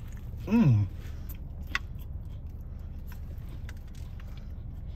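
A man's appreciative "mmm", falling in pitch, as he bites into a crispy fried chicken burger, then chewing with faint mouth clicks and one sharp click a little under two seconds in. A steady low hum fills the car cabin underneath.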